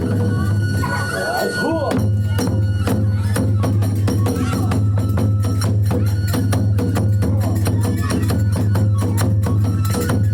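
Kagura hayashi accompaniment striking up for a fight scene: taiko drum and clashing hand cymbals played in a fast, dense rhythm.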